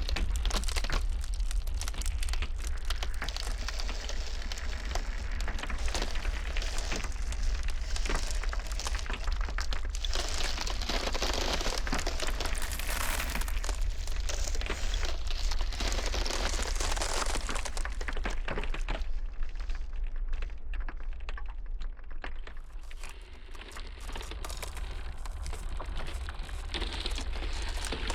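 Ice cracking and crackling in a dense stream of small sharp cracks over a low steady rumble. The crackling thins out for a few seconds about two-thirds of the way through.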